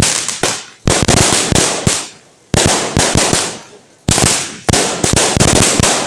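Firecrackers going off in rapid strings of sharp cracks, about four bursts one after another with short gaps between.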